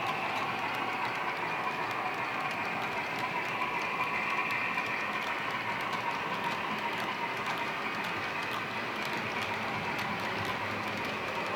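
H0-scale Roco BR 44 model steam locomotive running with a freight train, its Henning sound decoder playing a three-cylinder steam locomotive sound. The running sound is steady, with scattered light clicks.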